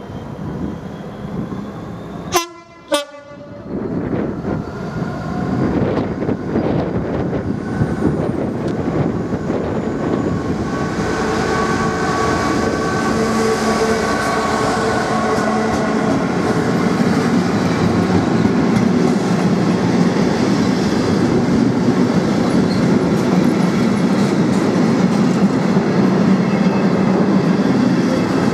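A DB Cargo Class 66 diesel locomotive approaches and passes with its engine running, growing steadily louder, then a long rake of covered box wagons rolls by with continuous wheel-on-rail clatter. There are two short sharp sounds about two and a half seconds in.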